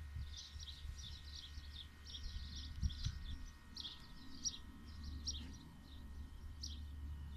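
Small birds chirping in a steady, many-voiced chatter of short high calls, over a constant low rumble.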